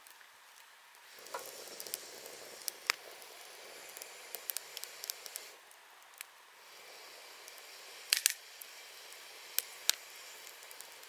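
Wood campfire burning, crackling with scattered sharp pops, the loudest about eight seconds in, over a steady hiss that comes and goes in two long stretches.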